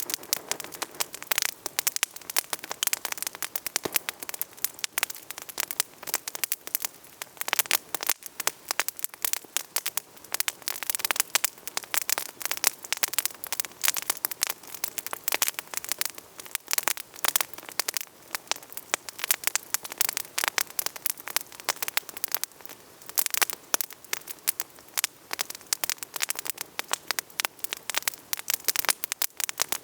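Wood campfire burning with steady, uneven crackling: many sharp crackles a second over a soft hiss.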